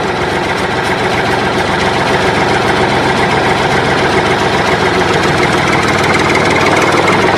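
Engine idling steadily with a rapid chugging pulse.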